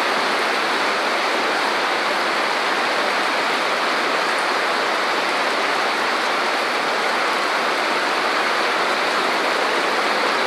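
Heavy rain pouring down onto a wet paved street, a steady, even hiss.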